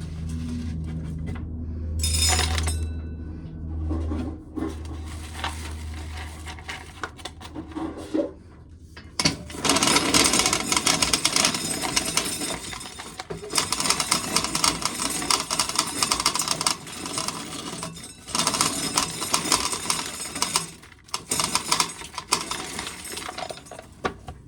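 A low steady hum for the first several seconds, then dry shelled corn kernels clattering and rattling into a container in long runs with short breaks, until the container is full.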